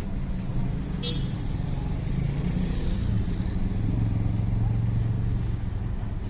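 A motor vehicle engine running with a steady low hum that cuts off about six seconds in, amid street noise.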